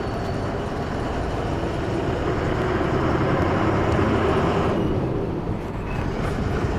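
Goods lorry's engine running with road noise as the truck moves. The higher part of the noise drops away about five seconds in, leaving the low engine rumble.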